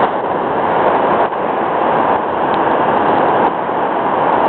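A pressurised container in a bonfire jetting gas from a leak with a steady, loud rushing hiss that builds slightly, a sign it may burst.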